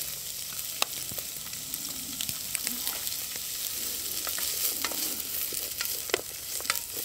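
Diced bacon and sliced onions sizzling in hot oil in a pot over a campfire: a steady frying hiss. Sharp clicks and scrapes come now and then as a wooden spoon stirs the pot.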